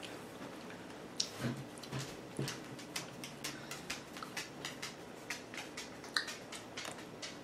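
Close-up eating of a chocolate-covered strawberry: chewing with many small, quick wet clicks and smacks from the mouth and the chocolate shell.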